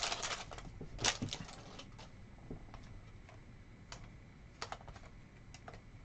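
Trading cards being handled and flipped through by hand: light, irregular clicks and taps of card stock, with a louder one about a second in.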